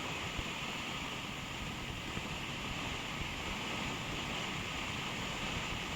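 Steady rush of wind over the microphone with road and engine noise underneath, from riding a motorcycle at speed.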